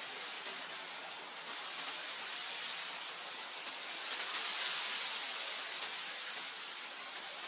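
Wind blowing over grassland: a steady hiss that swells in a gust about four to five seconds in, then eases back.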